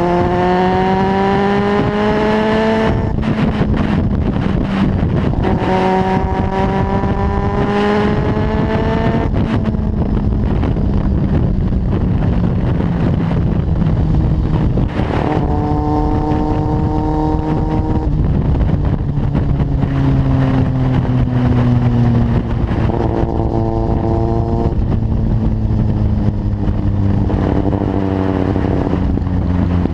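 Kawasaki Z750's inline-four engine through a carbon Leovince exhaust, accelerating hard five times with the pitch climbing in each pull and easing off to a lower, falling note in between.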